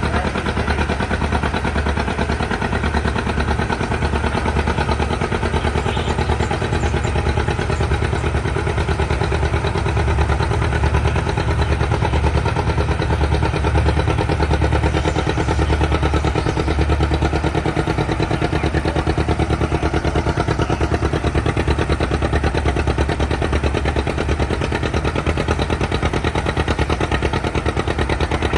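Tractor engine running steadily at a low, even speed, with a fast regular low-pitched pulse and no revving.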